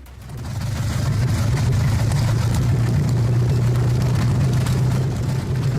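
Ford GAA 18-litre V8 tank engine running. Its sound swells over the first second, then holds a steady, deep note.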